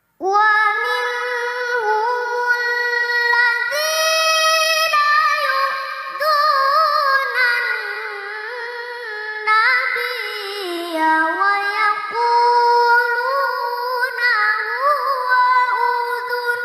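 A child qari reciting the Quran in the melodic tilawah style: one long phrase on a high voice, ornamented with wavering turns and slides between notes.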